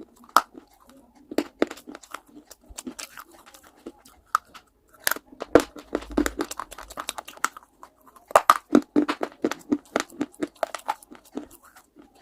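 Close-up biting and chewing of crunchy baked clay: irregular sharp crunches and crackles. They are sparse for a few seconds and then come in dense runs about five seconds in and again near the last third.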